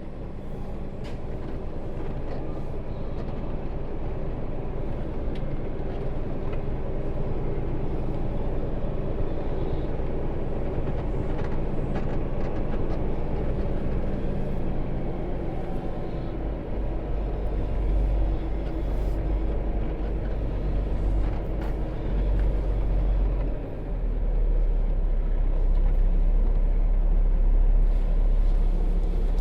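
Semi truck's diesel engine running steadily, a low rumble that grows louder in the second half.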